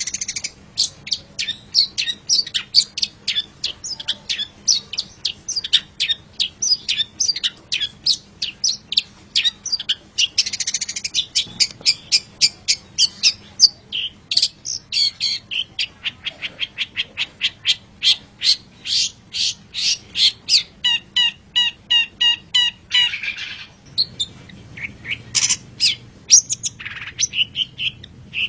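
Long-tailed shrike singing a fast, varied chattering song of short, sharp high notes, several a second. About 21 seconds in it gives a run of evenly spaced ringing notes, then a harsh rasping note.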